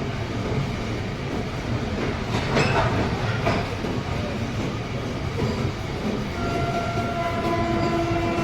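Train running on the rails with a steady rumble, a few sharp wheel clacks two to three seconds in, and steady pitched tones joining from about six seconds in, in the manner of a train horn.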